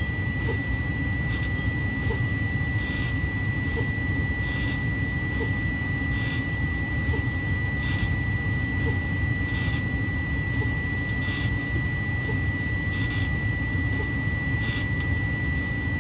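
Tractor-trailer's low-air warning buzzer sounding one steady high tone while the brake pedal is pumped. Short bursts of exhausting air come about every second and a half as the air pressure is drained below the warning point, toward where the parking brake valve pops out.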